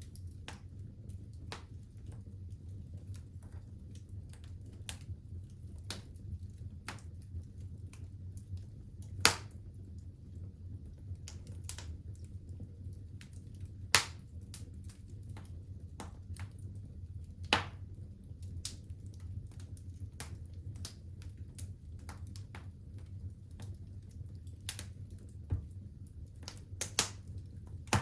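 Wood fire burning in a fireplace, crackling with scattered small clicks and a few louder pops, over a steady low rumble of the flames.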